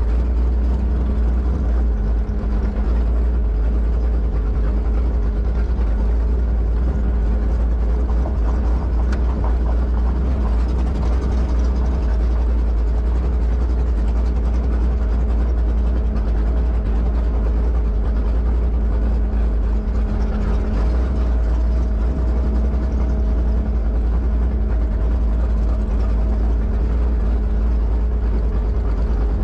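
The 1972 Plymouth Duster's 408 cubic-inch V8 running steadily at idle, with a deep, unchanging exhaust rumble.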